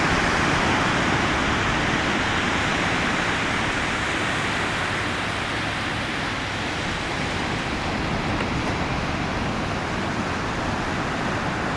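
Steady, even rushing noise, with no distinct bird calls standing out.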